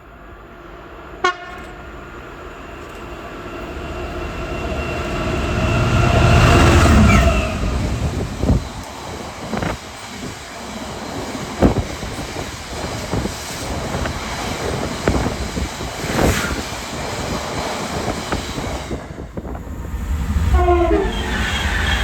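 A train approaching and passing through the station: a held horn-like tone grows louder up to a peak about seven seconds in, then a steady rumble with a run of sharp clacks from the wheels over rail joints. A short broken horn-like sound comes near the end.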